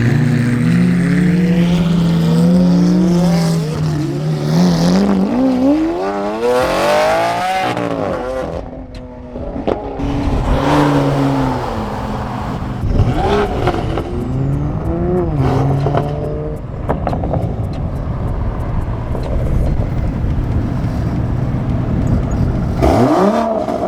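Car engines revving and accelerating, the pitch climbing and falling in repeated sweeps, with the longest climb about five seconds in.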